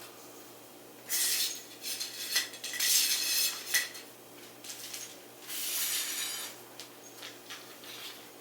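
Clinking and scraping of hard objects in a few irregular bursts, with scattered small clicks between them.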